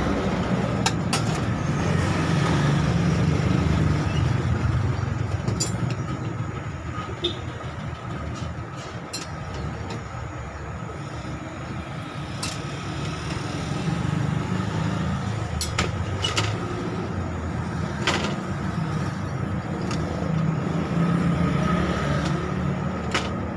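Low rumble of road traffic that swells and fades as vehicles pass, over a faint steady hum, with scattered light clicks.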